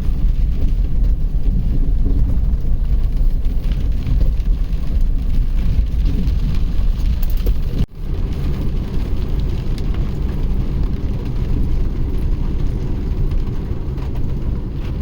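A vehicle driving along a road, with a steady low engine and road rumble. The sound breaks off abruptly about eight seconds in and picks up again at once.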